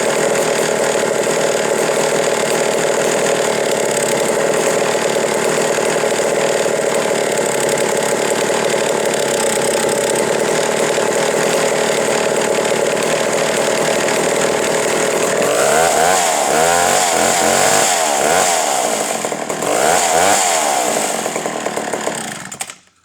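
Vintage McCulloch 1-70 chainsaw's 87 cc two-stroke engine running loud and steady, then revving up and down repeatedly for the last several seconds before cutting off suddenly near the end.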